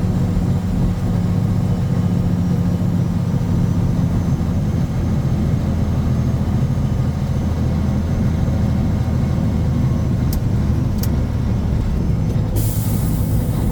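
Mack RS700L truck's turbocharged diesel engine running steadily under way, a low even drone. Two sharp clicks come about ten and eleven seconds in, then a loud hiss of air near the end.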